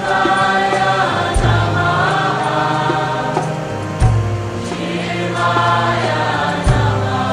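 Devotional Hindu chant music: voices singing a Shiva mantra over a deep bass note that starts again about every two and a half seconds.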